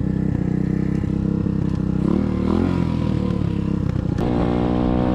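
SSR 125cc dirt bike's single-cylinder four-stroke engine running while riding, revving up briefly about two seconds in and climbing in pitch again near the end, with a few light rattles.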